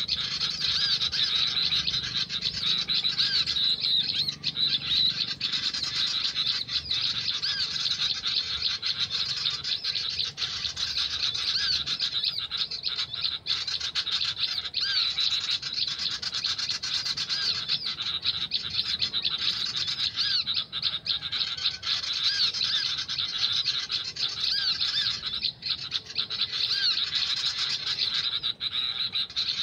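Birds chirping in a dense, continuous chorus of short, high, repeated notes that never let up.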